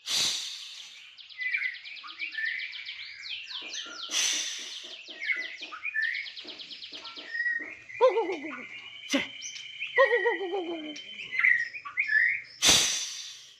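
A songbird singing a varied song of chirps, fast trills, rapid repeated notes and falling whistles. Three short noisy bursts break in: at the start, about four seconds in and near the end.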